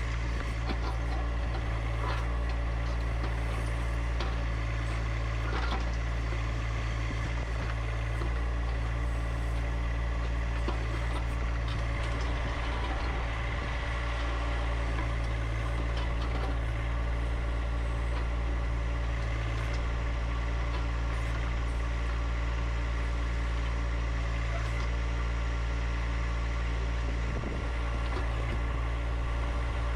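John Deere 1025R compact tractor's three-cylinder diesel engine running at a steady speed, with a few faint clicks over it.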